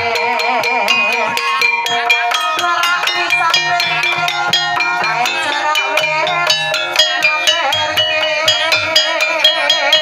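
Javanese gamelan music in Banyumasan tayub style: struck metallophones playing interlocking notes over quick, regular percussion strokes, with a wavering vocal-like line near the start.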